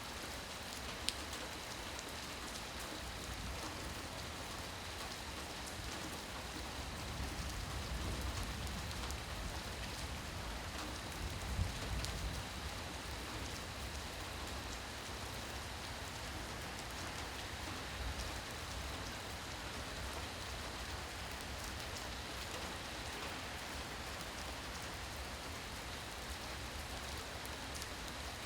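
Steady rain falling, an even hiss with occasional sharper ticks of single drops. A low rumble swells briefly around the middle.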